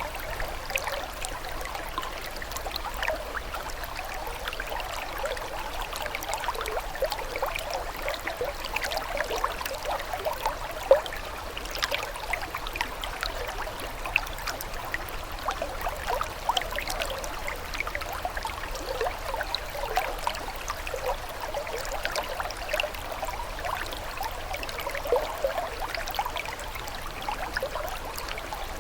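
Water trickling and bubbling steadily, full of quick little gurgling notes.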